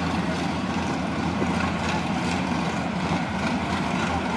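A vehicle engine idling steadily, a low, even rumble with no revving.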